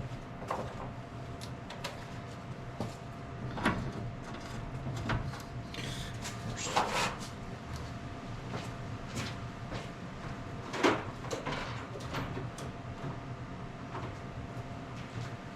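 Hand tools clanking and knocking on metal at irregular intervals, with one longer scrape in the middle, as the fan shroud bolts and radiator are worked loose on a 1954 International R-110 truck. A faint steady hum runs underneath.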